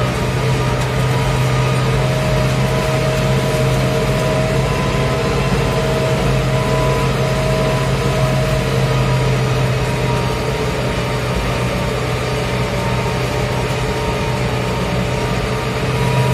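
Farmtrac 675DT tractor's diesel engine running steadily under load, pulling a two-furrow plough through wet, slippery soil.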